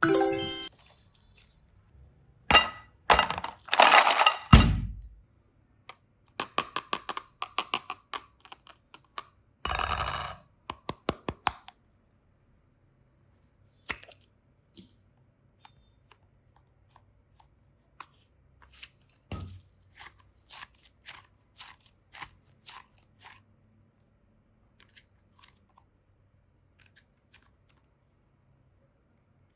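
Slime and modelling clay being handled and squeezed, making a series of sticky crackles, pops and clicks. The sounds come thick and loud in the first twelve seconds, with longer crackling bursts near the start, around four seconds and around ten seconds, then thin out to scattered soft clicks.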